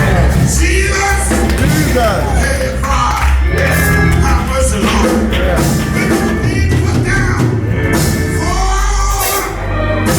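Live church music: singing over a band with a heavy bass line.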